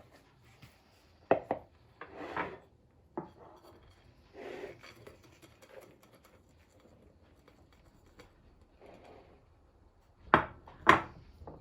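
Kitchen handling sounds: dishes and utensils set down and knocked, with a few brief scrapes and rustles in between. The two loudest knocks come near the end.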